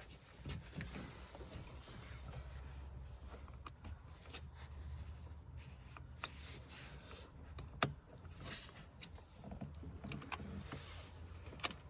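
Quiet handling noises of work on a car door's interior trim panel: faint scrapes and rustles, with one sharp click about eight seconds in and another near the end.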